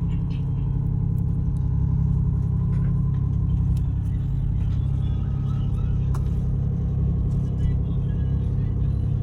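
Marine diesel engine drone heard aboard a vessel during berthing: a steady, heavy low rumble that holds an even level throughout.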